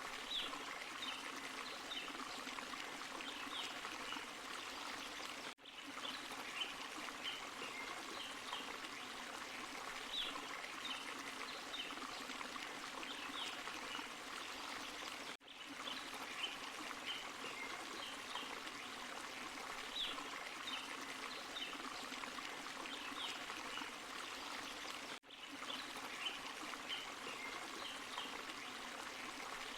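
Small forest waterfall and stream flowing steadily, an even rushing of water with short high ticks over it. The sound cuts out briefly three times, about ten seconds apart, where a short recording repeats.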